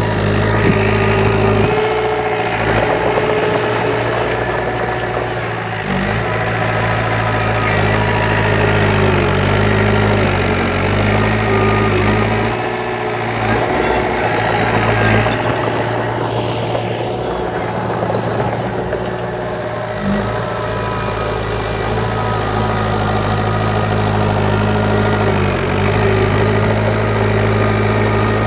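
Diesel engine of a piece of earthmoving machinery running steadily, its pitch dipping and recovering briefly every few seconds as it works under changing load.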